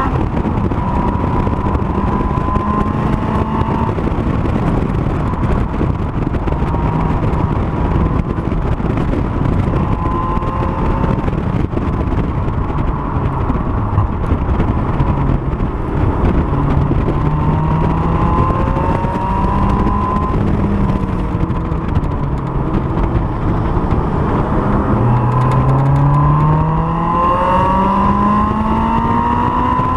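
Honda S2000's four-cylinder engine driven hard around a circuit, its pitch climbing repeatedly under acceleration and dropping off on lifts and braking, over heavy wind and road noise.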